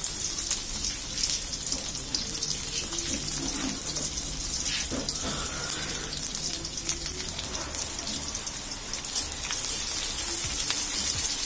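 Chopped garlic sizzling in hot cooking oil in a wok, a steady hiss full of fine crackles.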